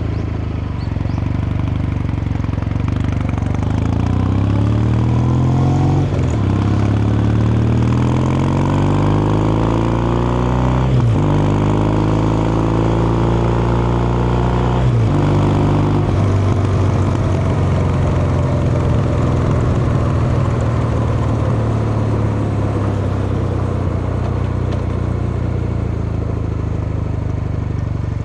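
Kawasaki Meguro K3's air-cooled vertical-twin engine and exhaust accelerating through the gears: the pitch climbs, drops with three upshifts about six, eleven and fifteen seconds in, then the bike holds a steady cruise.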